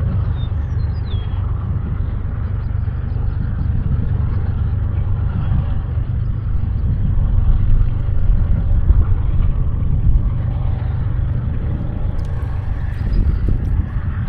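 Strong wind buffeting the microphone: a loud, low, gusting rush that swells and eases, loudest around the middle.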